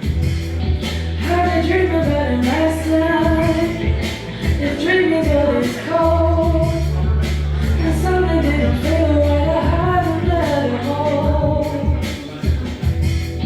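A woman singing a song over a full musical accompaniment, with a steady bass line and regular drum beats.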